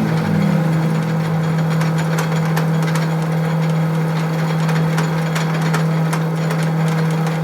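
Workshop machine's motor running at a steady speed with a constant hum, with faint scattered ticks over it.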